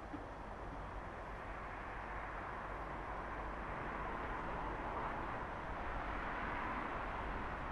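Diesel locomotive hauling a railhead treatment train approaching, a steady engine and rail noise growing gradually louder.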